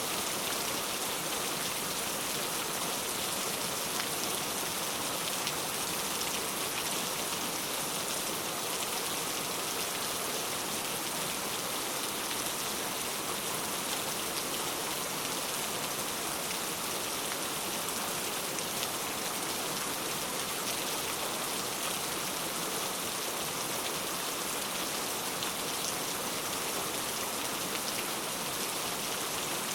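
Steady rain falling, an even hiss of drops with faint scattered patters on a surface.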